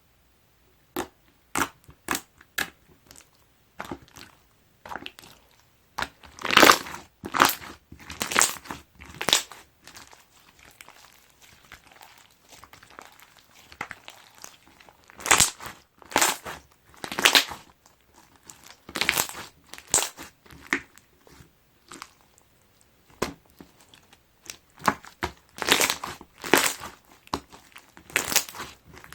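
Slime packed with bean bag foam beads being squeezed and pressed by hand, giving crunchy crackling and popping in repeated bursts about a second apart, with a few sharp clicks in the first seconds.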